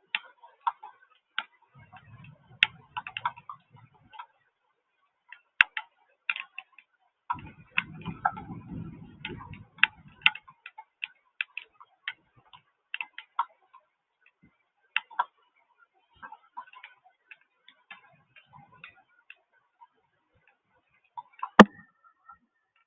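Rain dripping onto a hard surface close to the microphone: irregular sharp ticks, several a second, coming in clusters with short pauses. Two brief low rumbles pass early on, and one louder knock comes near the end.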